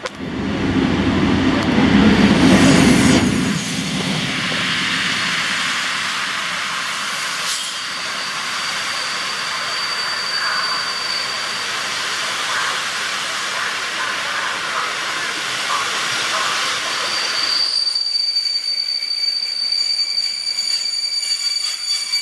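Electric locomotive passing close with a loud low rumble for the first few seconds, then passenger coaches rolling steadily past. A thin high-pitched brake squeal sounds briefly mid-way and returns stronger near the end as the low rolling noise fades, the train braking to a stop.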